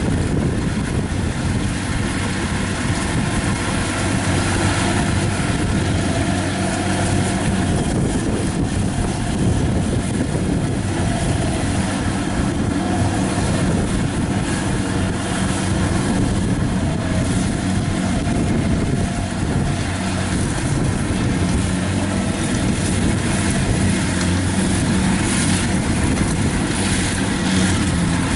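Kubota 70 combine harvester running steadily as it cuts rice, its engine a constant low drone with a steady hum under a dense machine noise.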